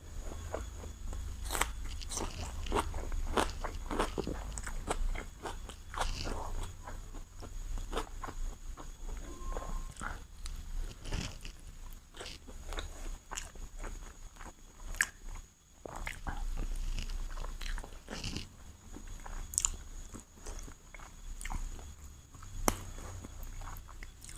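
A person biting and chewing chicken biryani into the microphone, heard as many irregular, sharp mouth clicks and bites.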